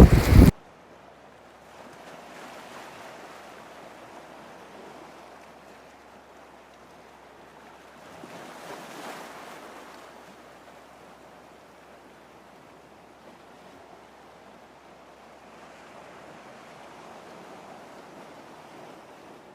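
Faint ocean surf: a soft, even hiss that swells and fades every several seconds. A louder sound ends abruptly about half a second in.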